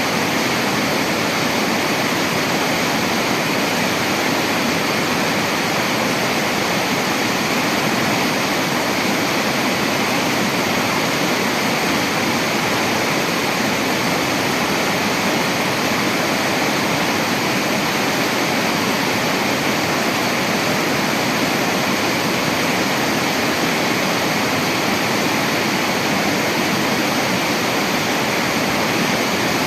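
Steady rushing water, an even, unbroken noise with no distinct events.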